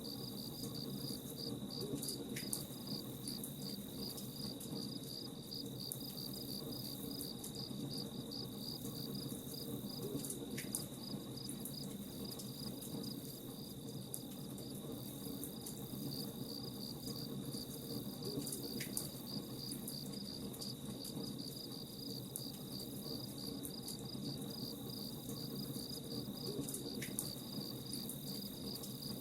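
Crickets chirping in a steady, rapid pulse, with scattered faint crackles of a campfire under it.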